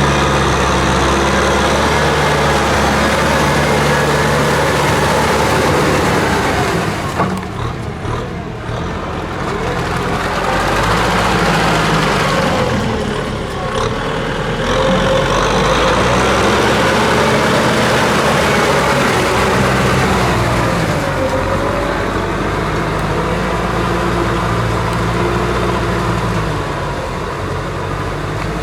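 Kubota M6040SU tractor's diesel engine running steadily under work. Its sound drops away briefly twice, about a quarter and about halfway through, then comes back up.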